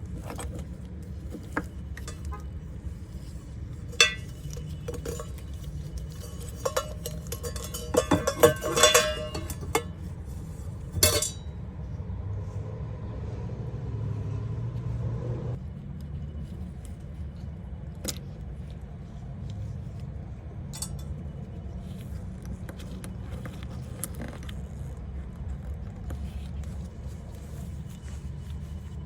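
Metal hand tools and parts clinking and clattering in scattered knocks, busiest in a cluster about a third of the way in, over a steady low hum.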